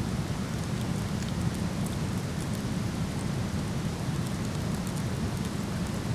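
Steady roar of a waterfall, heaviest in the low range, with faint scattered crackles from a wood fire.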